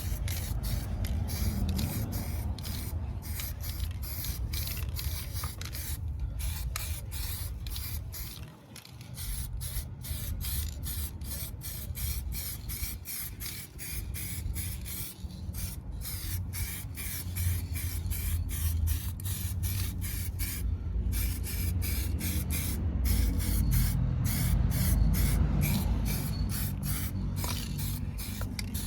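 Black coating being sprayed onto a repaired car sill: a hiss of spray broken by many brief pauses, over a low rumble.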